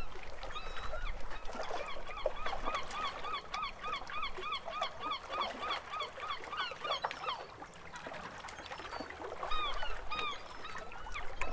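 A bird calling in a fast series of repeated honking notes, about three a second. The series breaks off about seven seconds in and starts again near the end.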